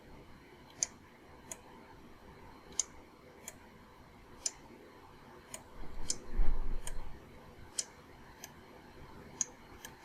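Separate sharp clicks, irregular and about one a second, from computer mouse buttons and keys being pressed, with a low rumble around six to seven seconds in.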